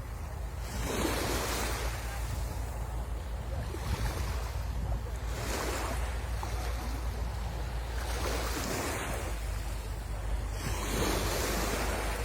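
Sea waves breaking and washing up the beach, surging about four times at intervals of roughly three seconds over a steady low rumble.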